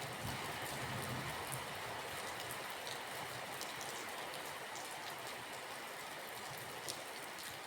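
Steady rain, an even hiss with many scattered drops ticking. A low rumble underneath fades out within the first second or so.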